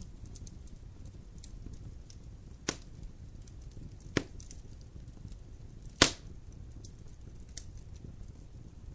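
Wood fire crackling in a fireplace: a low steady rumble with faint small crackles, and three sharp pops from the burning wood, the loudest about six seconds in.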